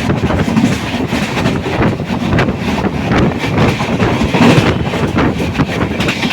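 Express passenger train of LHB coaches running through a station at high speed without stopping. The wheels clatter rapidly over the rail joints under a steady rush of noise.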